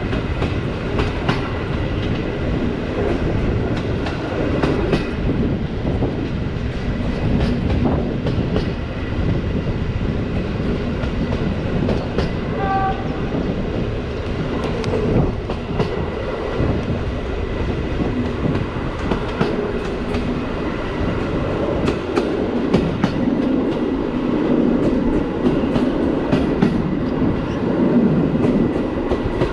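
Passenger train carriage running along the line: a steady rumble of wheels on rail, with repeated clacking and knocking as the wheels pass over rail joints.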